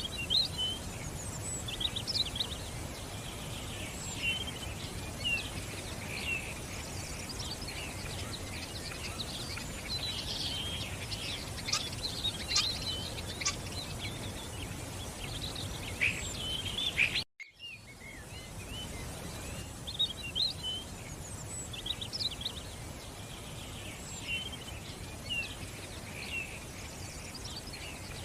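Several small birds chirping and trilling in quick, overlapping calls over a steady rush of running water. The sound cuts out for a moment about two-thirds of the way through, then resumes.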